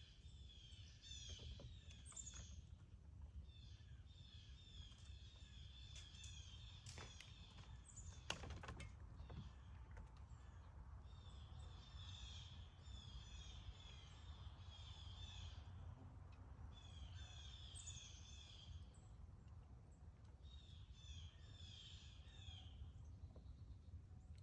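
A small songbird singing faint, high, rapid phrases of quick chirping notes, each phrase two to four seconds long, about five times with short gaps, over a low steady rumble. There is a single sharp click about eight seconds in.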